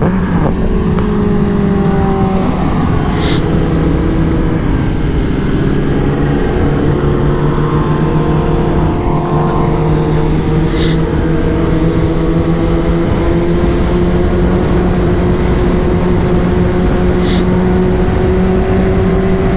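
Kawasaki H2's supercharged inline-four engine running at a steady cruise, its note dipping a little early on and then slowly climbing. Three short sharp sounds cut through it, about 3, 11 and 17 seconds in.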